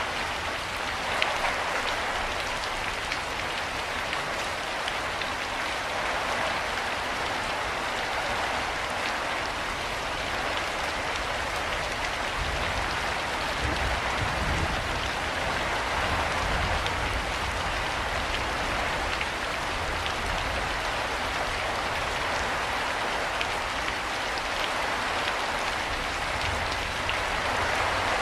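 Steady rain falling, a constant hiss with many small drops ticking on surfaces.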